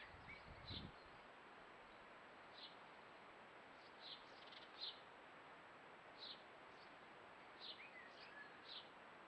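Small garden birds chirping faintly: short, high single chirps scattered every second or so, with a couple of soft downward-sliding calls, over a quiet background hiss. A brief low rumble sounds in the first second.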